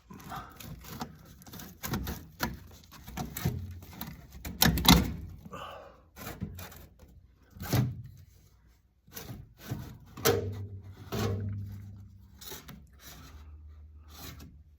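Sheet-metal dryer vent pipe being handled and pulled apart by hand: irregular knocks, clanks, scrapes and crinkles of the duct and its tape. A low steady hum comes in about ten seconds in.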